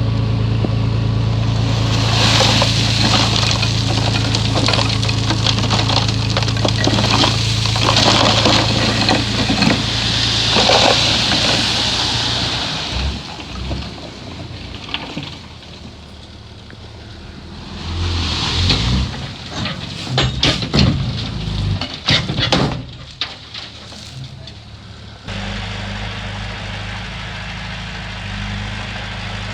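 Heavy diesel earthmoving machinery at work. The engine runs steadily under a rushing hiss of moving soil for the first dozen seconds, then drops away. A series of sharp metallic clanks and rattles follows around the middle, and the steady engine hum comes back suddenly near the end.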